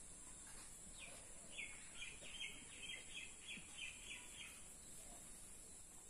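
A bird calling a quick run of about nine short, high notes, roughly three a second, faint over a steady high hiss.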